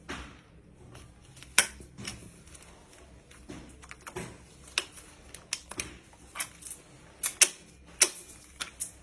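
Hand tools and metal engine parts clicking and tapping against each other, a string of about fifteen sharp, irregular clicks.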